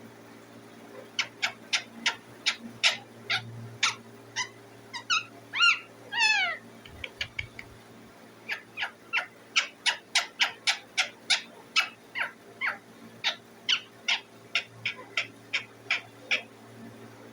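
Indian ringneck parakeet calling: a long run of short, shrill chirps at about three a second, with a few longer falling squawks around five to six seconds in and a short pause just after.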